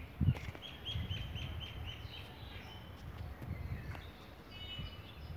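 A bird calls a quick run of about eight short, matching notes, lasting a little over a second. Low thumps and rumbles run under it, the loudest just as the run begins.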